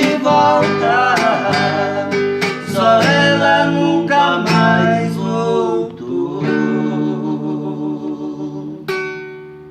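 Male voice singing over strummed acoustic guitar, ending the song: the voice holds a long last note from about six seconds in, and a final guitar chord is struck near the end and rings out, fading.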